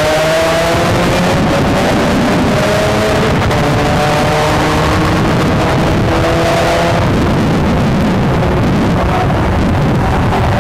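Two supercharged Chevrolet Cobalt SS cars accelerating hard down a drag strip, their engine notes climbing and dropping back at a couple of upshifts, then fading as the cars pull away about two-thirds of the way through.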